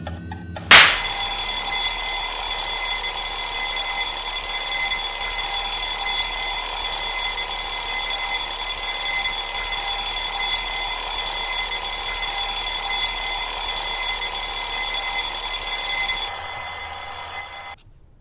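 Bell alarm clock ringing continuously: a loud, dense metallic ring of steady high tones that sets in with a sharp loud hit about a second in. It drops quieter near the end and then stops abruptly.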